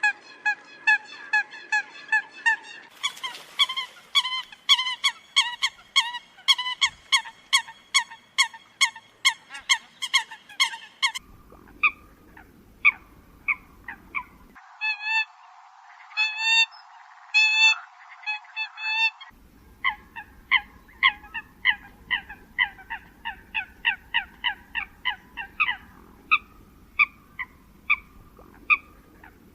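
Eurasian coot calling: a long series of short, honking notes, two to three a second. The recording switches abruptly between takes several times, with the background hiss and the pitch and shape of the calls changing at each splice.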